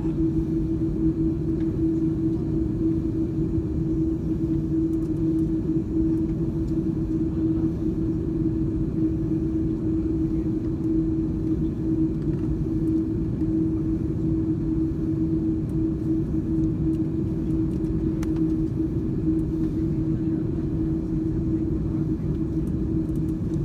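Steady cabin noise inside an Airbus A330-200 taxiing after landing: a constant low rumble with a steady mid-pitched hum running through it.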